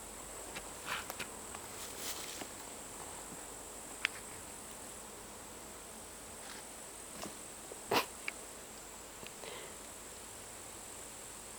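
Steady high-pitched chirring of insects in grass. A few scattered clicks and rustles sound over it, the loudest a knock about eight seconds in.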